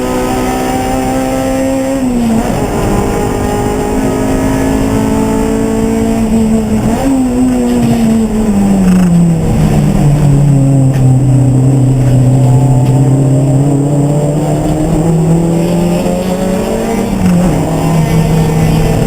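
Race car engine running at high revs, its note held steady and then stepping down twice, falling to a low pitch through the middle as the car slows. It then climbs again as the car accelerates, with another small step near the end.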